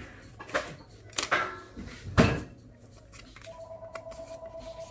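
Trading cards and packaging being handled: a few knocks and rustles, the loudest a thump about two seconds in. Then a steady electronic beep, two pitches at once, held for about two seconds near the end.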